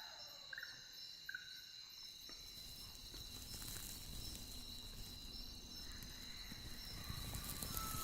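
Night nature ambience: crickets or other insects trilling steadily at a high pitch, with a few short chirps in the first second and a half. A babbling stream's rushing comes in about two seconds in and grows louder.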